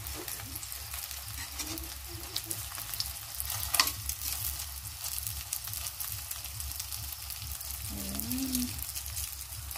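Vegetable lumpia (spring rolls) frying in a thin layer of oil in an aluminium wok: a steady sizzle with scattered crackles. Metal tongs clink against the pan as the rolls are turned, one sharper clink about four seconds in.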